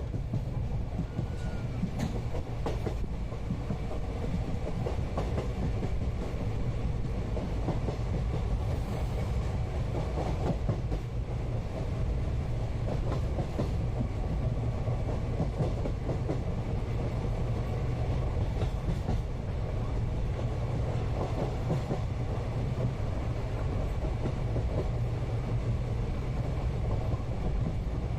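Interior of a moving Indian passenger train carriage: a steady low rumble of wheels on the rails, with faint intermittent clicks and rattles.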